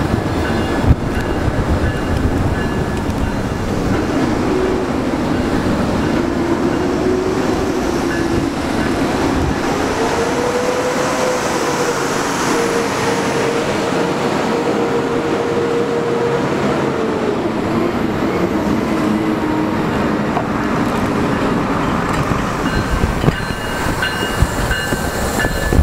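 Freight train slowly hauling retired Budd R32 subway cars over street-running track: a steady rumble of wheels and cars, with a sharp knock about a second in. Through the middle a wheel squeal wavers in pitch as the cars take the curve.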